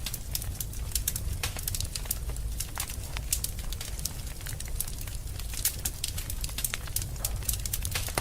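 Fire burning in a fireplace, crackling with many irregular sharp pops over a steady low rumble of the flames.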